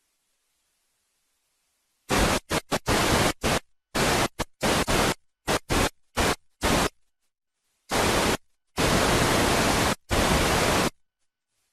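Bursts of loud white-noise static, about a dozen, switching abruptly on and off with dead silence between them. The longest bursts come near the end.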